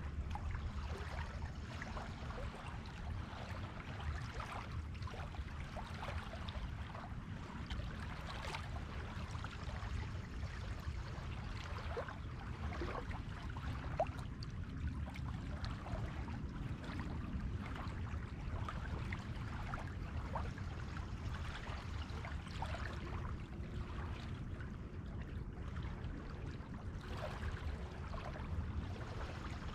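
Shallow sea water washing and lapping at the shoreline: a steady wash over a low rumble, dotted with many small splashes and crackles of bubbling foam.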